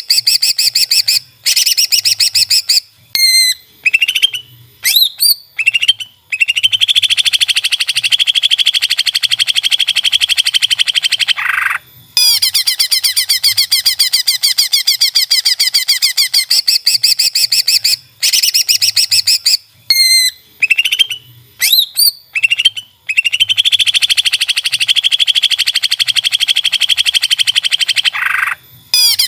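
Cucak ijo (greater green leafbird) singing: long, fast chattering trills lasting several seconds, broken by short rising and falling whistled notes, and the same song sequence repeats about every 17 seconds.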